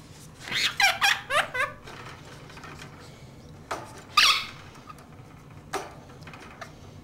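Pet bird calling in short squeaky squawks: a quick run of falling squeaks about half a second in, then one louder, higher call around four seconds in.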